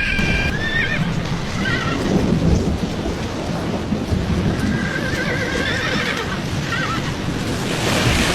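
An animal crying out in several high, wavering calls, near the start, about two seconds in and again later, over a continuous roar of storm wind.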